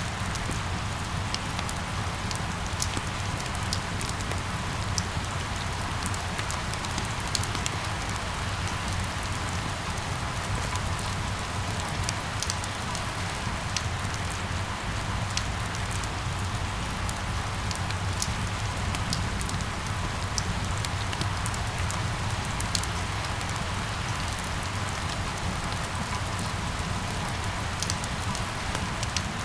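Steady rain falling, with scattered individual drops ticking sharply on a hard surface over a low, constant rumble.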